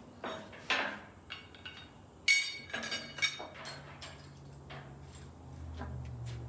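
Hand tools being gathered up, metal knocking and clinking against metal, with one loud ringing clank a little over two seconds in.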